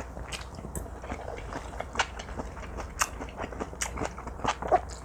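Close-miked chewing of teriyaki-marinated pork neck, with irregular wet, sticky mouth clicks.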